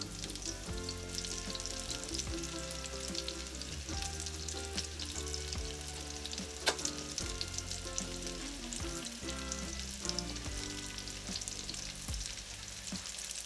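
Battered chicken pieces sizzling and crackling in a shallow layer of oil in a frying pan, with one sharp tick about halfway through.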